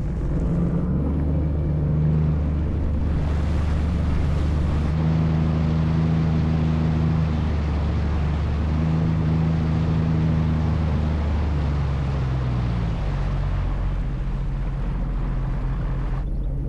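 Sea-Doo jet ski engine running at low, slow-cruise speed, a steady hum whose pitch shifts a little and eases down near the end, with water wash under it.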